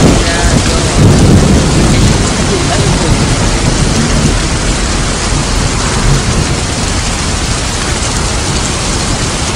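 Heavy rain pouring steadily. A low rumble of thunder fades out over the first two seconds.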